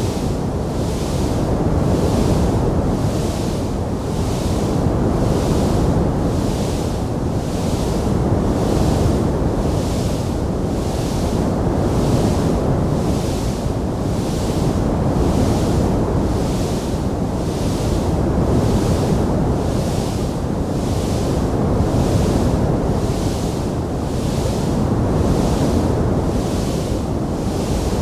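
Wood fire burning in a fireplace with a steady rushing hiss, with no distinct pops. A higher hiss swells and fades about once a second.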